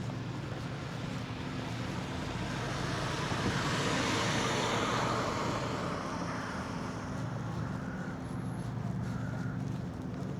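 A motor vehicle passes by, its noise swelling and fading over a few seconds, over a steady low engine hum.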